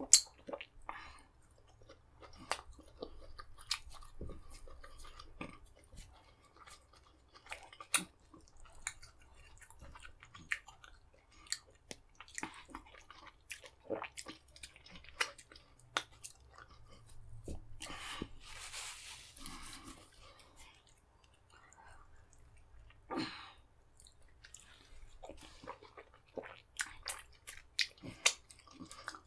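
Close-miked eating of fufu and vegetable soup by hand: wet chewing, lip smacks and many sharp clicks as fingers are sucked clean. One longer rushing slurp comes about two-thirds of the way through.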